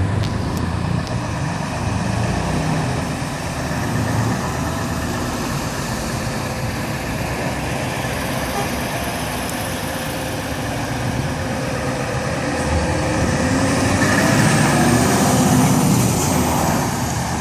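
Trucks' diesel engines running as they drive past. One passes close and gets louder from about 14 to 16 seconds in.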